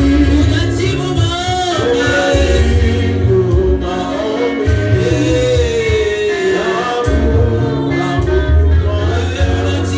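Live gospel praise and worship music: singing over a steady bass line and held keyboard chords.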